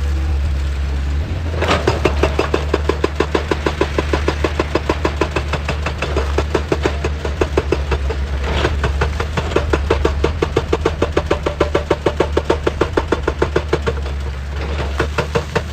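Excavator's diesel engine running steadily under a hydraulic breaker hammering rock in a rapid, even train of blows, starting about two seconds in, stopping near the end and starting again.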